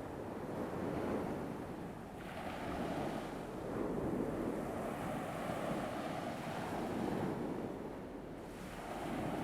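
Recorded ocean waves breaking and washing on a shore, swelling and easing in slow surges every few seconds.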